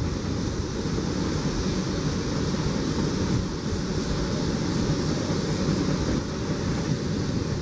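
Steady rolling rumble of a BNSF double-stack container train's cars passing over an elevated track, mixed with wind buffeting the microphone.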